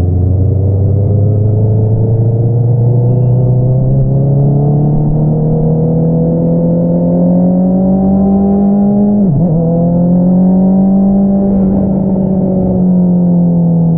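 2022 Honda CBR650R's inline-four engine through an Akrapovič single-outlet exhaust, pulling in one gear with its pitch climbing slowly. About nine seconds in the pitch dips sharply and recovers, then holds and eases down slightly near the end.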